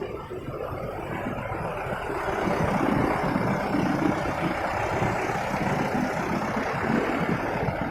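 A motorcycle riding in city traffic, heard from the rider's seat: engine and road noise grow louder over the first two seconds or so as it picks up speed, then hold steady.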